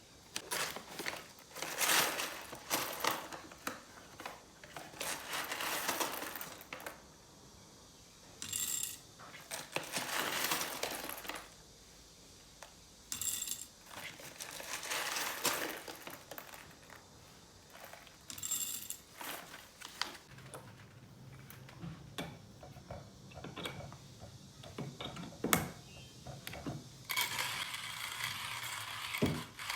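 Coffee beans poured and rattling into a container in several short bursts, with small clinks. A steadier noise starts near the end.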